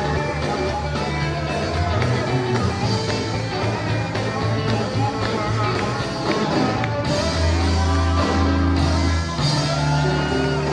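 Live sacred steel gospel band playing loud, steady music: steel guitar over a bass line that moves between sustained low notes.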